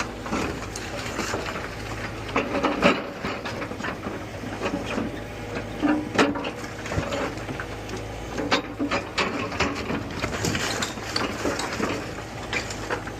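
Excavator tearing down a house: irregular cracks, snaps and crunches of the structure breaking apart over the steady drone of the machine's engine.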